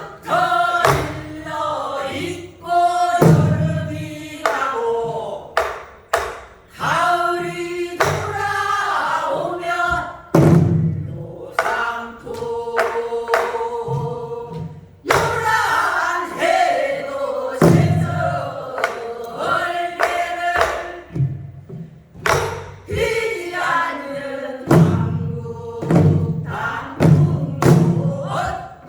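A group sings in chorus while striking Korean buk barrel drums (buk byeongchang), with sharp drum beats falling between and under the sung lines.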